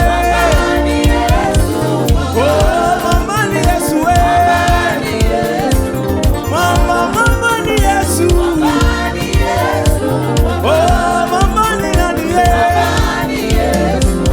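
Live gospel praise and worship music: voices singing over a band with bass and drums at a steady beat.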